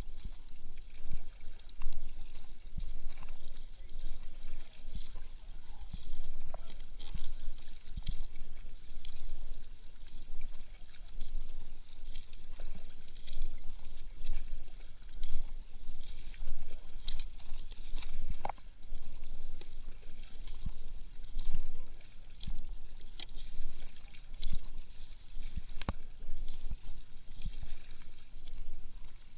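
Kayak paddling: paddle blades dipping and splashing in the water with irregular strokes, over a steady low rumble of wind on the microphone.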